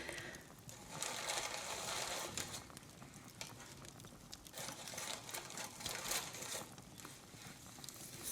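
Soft close-up rustling and brushing of handled decorations near the microphone, in two longer stretches, with scattered faint crackles of a fireplace.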